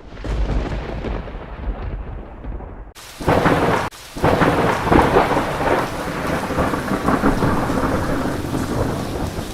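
Thunder rumbling through a steady wash of rain. About three seconds in, a much louder thunderclap breaks in suddenly, cuts out for a moment, then rolls on loud to the end.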